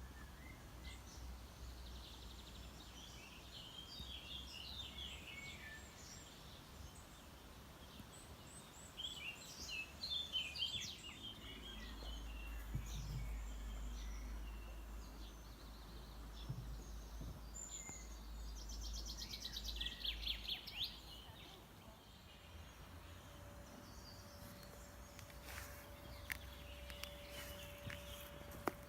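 Songbirds singing in short, scattered phrases with quiet gaps between them, over a faint low rumble in the middle and a faint steady hum near the end.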